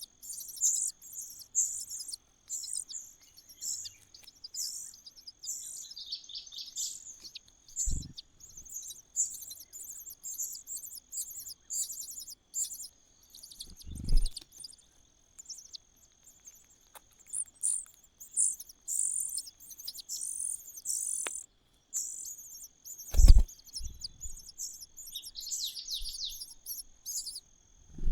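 Nestling birds in a nest giving rapid, very high-pitched begging chirps in bursts, over a steady high whine. A few dull low thumps break in, the loudest about three quarters of the way through.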